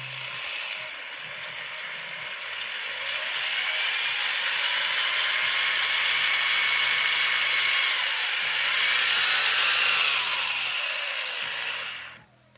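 Power tool grinding or cutting steel plate: a steady, loud, high grinding noise with a whine that shifts in pitch as the load changes. It stops abruptly near the end.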